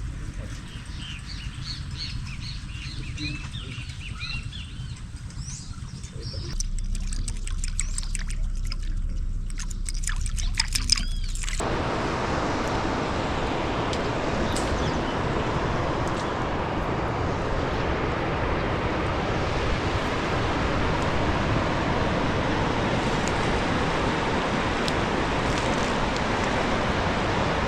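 Birds chirping, then a run of clicks and rustles, then from about twelve seconds in the steady rush of water flowing in a small woodland creek, which starts suddenly.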